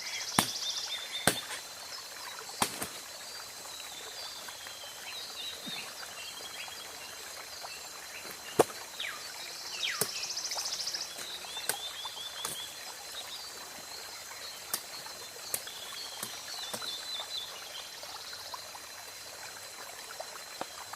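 Sharp chopping knocks at irregular intervals as a blade cuts into a thick bajakah water vine. Behind them runs forest ambience: short high bird chirps, a buzzing insect trill and a steady high insect drone.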